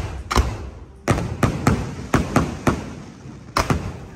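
Fireworks going off: about nine sharp, irregularly spaced bangs, most closely packed between about one and three seconds in.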